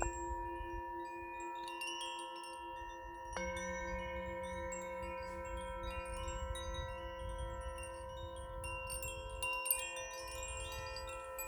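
Metal chimes ringing, struck at the start and again about three and a half seconds in, each set of tones sustaining for seconds, with a low rumble underneath.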